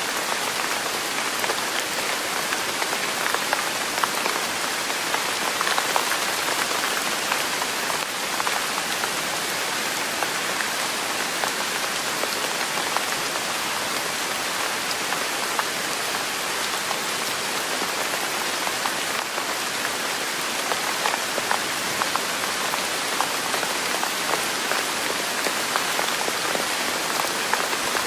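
Steady rain falling: an even hiss dotted with many small drop ticks, without change.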